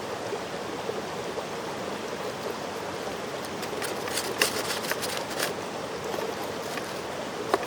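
Mountain stream flowing steadily, a continuous rush of water. A few light clicks and taps sound over it between about three and a half and five and a half seconds in, and once more near the end.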